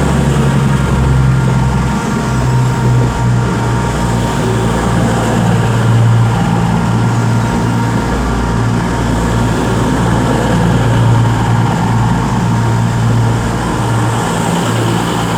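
Class 221 Super Voyager diesel multiple unit's underfloor diesel engines running with a steady, constant low drone.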